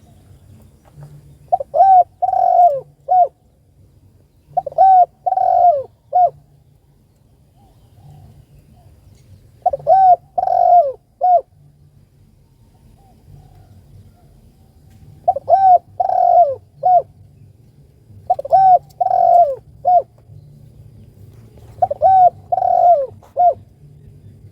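Spotted dove (tekukur) cooing: six phrases of a few coos each, every phrase with a short opening note, a longer, louder middle coo and a short closing note, repeated every few seconds.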